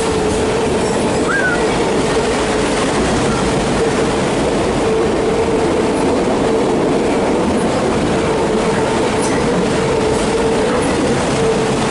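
CSX autorack freight train rolling past: a steady, loud rumble of wagons and wheels on the rails, with a constant ringing wheel note.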